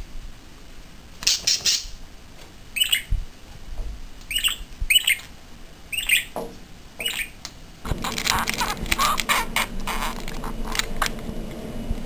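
Short, sharp bird squawks, about one a second, six in all. About eight seconds in, these give way to a rapid clicking and clinking as a budgie rummages through metal jewellery chains in a glass box.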